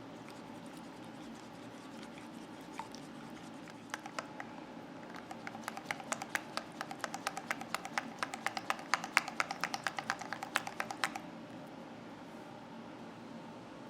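A kitchen utensil beating against a mixing bowl: a run of quick, regular clicks, about five a second, that grows louder and then stops a few seconds before the end.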